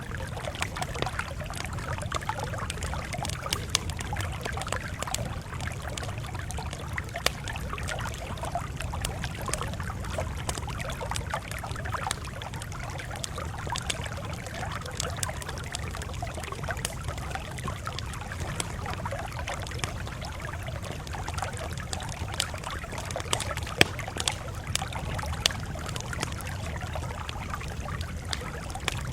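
Campfire crackling: irregular sharp pops and snaps over a steady low rumble, with one louder pop about 24 seconds in.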